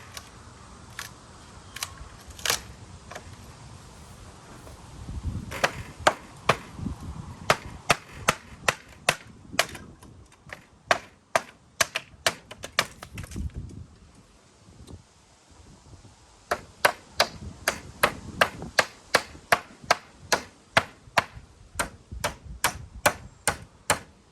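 Hammer driving nails into wood: two long runs of sharp strikes, about two a second, with a short pause between them and a few scattered knocks near the start.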